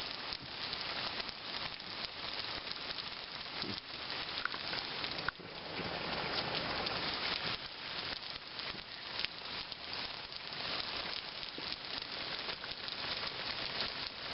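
Tropical-storm rain falling in gusty wind: a steady hiss of rain with many small drop hits, swelling louder about six seconds in.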